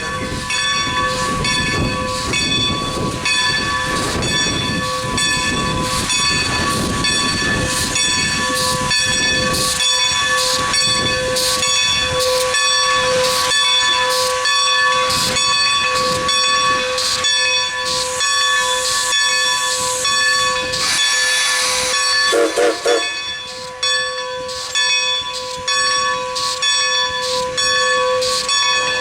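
2-10-0 steam locomotive working, its exhaust beating at an even, fairly slow pace over a steady hiss of steam and a set of steady tones. A short wavering tone sounds about two-thirds of the way through.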